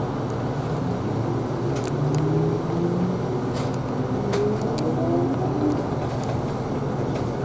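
Isuzu Erga Hybrid city bus heard from inside the cabin, pulling away and accelerating from a stop. Its drive pitch climbs twice as it gathers speed over a steady low running hum, with a few faint rattles.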